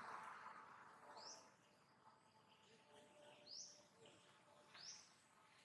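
Faint bird chirps: three short, high calls, each rising in pitch, spaced a second or two apart over a near-silent background.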